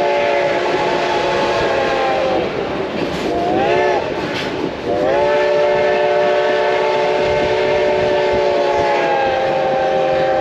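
Reading T-1 steam locomotive's chime whistle sounding for a grade crossing: a long blast that cuts off about two seconds in, a short blast a second later, then another long blast from about five seconds in, the pitch sliding as the whistle opens and closes. The train's running noise sits underneath.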